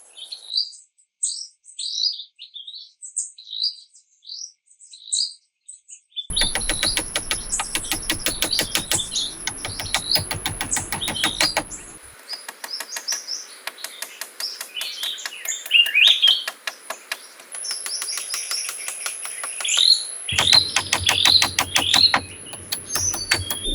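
Small birds chirping repeatedly. From about six seconds in, a fast run of clicks, about five a second, with a steady high-pitched whine joins the birdsong.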